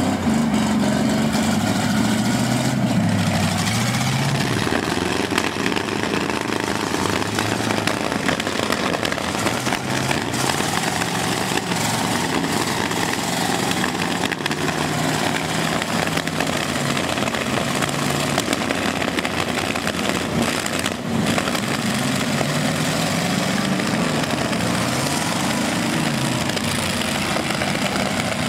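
Engines of several demolition derby cars running and revving, their pitch repeatedly rising and falling as the cars push and manoeuvre, over a continuous loud noisy bed.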